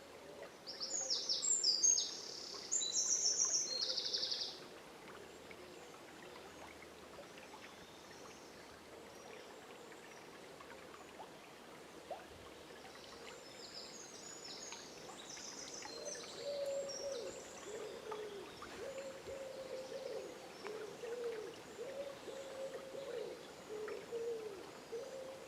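Forest dawn chorus over the steady rush of a river: a songbird sings a loud, high, fast phrase in the first few seconds, fainter high song follows later, and in the second half a bird gives a string of low, wavering hoot-like calls.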